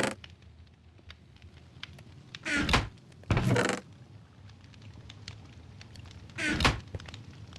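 Three short, loud thunks of firewood being handled, at about two and a half, three and a half and six and a half seconds in, with faint scattered ticks between them.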